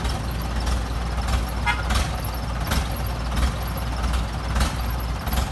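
Excavator's diesel engine running steadily under load, with sharp metallic knocks every second or so and a brief squeal nearly two seconds in.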